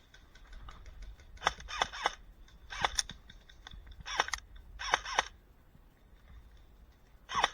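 Airsoft guns firing in short bursts of sharp pops, five bursts spread over several seconds with fainter clicks between.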